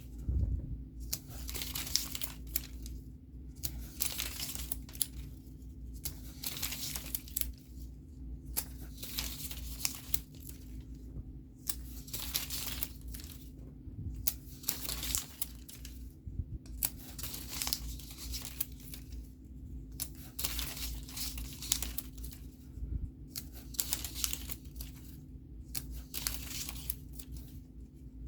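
Scratch-off stickers being peeled off their backing paper one after another, a crinkly tearing rustle about every second.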